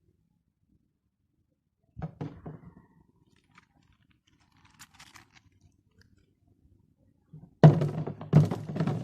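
Dull thuds and knocks from kitchen handling while making pickles: a short cluster about two seconds in, a few faint ticks, then a louder run of thuds near the end.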